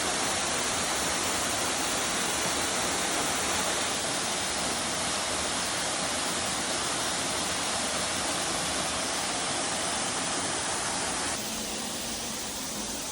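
Steady rushing of water, an even hiss with no distinct events. It drops a little in level and loses some of its high end about eleven seconds in.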